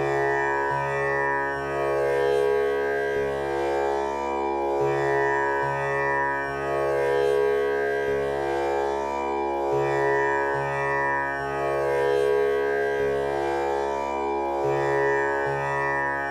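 Tanpura drone tuned to C# for the male vocal range, its strings plucked one after another in a slow, unbroken cycle that repeats about every five seconds, each note sustaining with a rich buzzing ring of overtones.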